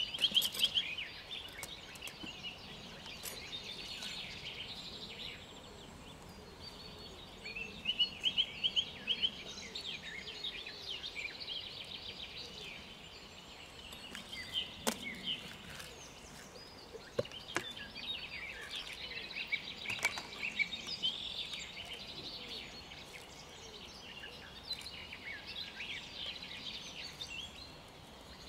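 Several songbirds singing in overlapping bouts of high, rapid chirps and trills.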